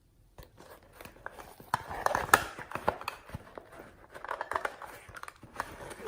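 Slime being squished and worked by hand, giving irregular crackling clicks and pops that come in two busy spells.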